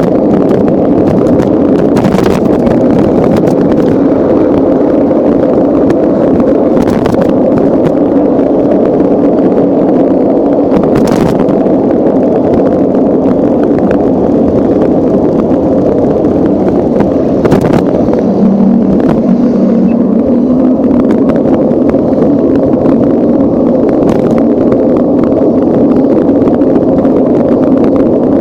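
Steady, loud rumble of wind and road noise on a camera's microphone while riding a bicycle, with a few brief knocks from bumps.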